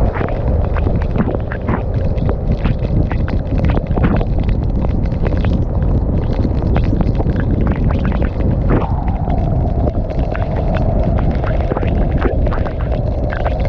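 Motorcycle riding at speed, with heavy wind buffeting the microphone over the engine note. About nine seconds in the engine pitch drops, as when the rider eases off. Many short sharp ticks and knocks are scattered throughout.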